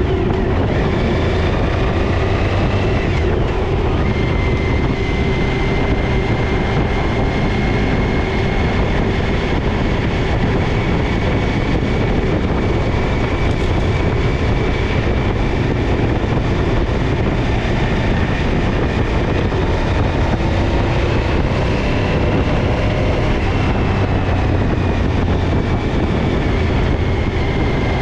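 Suzuki DL1000 V-Strom's V-twin engine running at a fairly steady speed, its pitch drifting only slightly; the bike has a misfiring rear cylinder.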